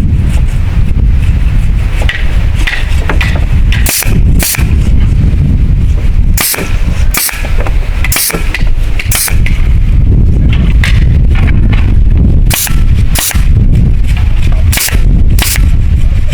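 Sharp knocks, about ten in all, mostly in pairs half a second apart, over a heavy steady rumble of wind on the microphone.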